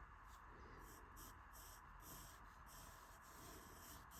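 Faint pencil strokes scratching on paper while sketching, irregular short strokes over near silence.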